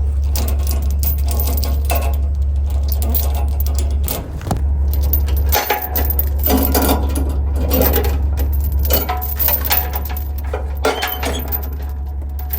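Steel tie-down chains clinking and rattling as they are unhooked from a haul trailer, in many quick metallic clicks, over a steady low hum.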